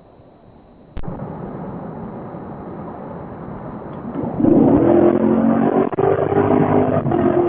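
Chevrolet Camaro SS's LT1 V8 engine accelerating hard. The engine sound starts abruptly about a second in, then gets much louder about four and a half seconds in as the revs climb.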